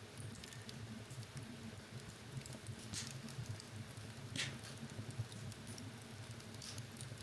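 Wood fire burning in a fireplace: a steady low rumble with many small crackles, and two sharper pops about three and four and a half seconds in.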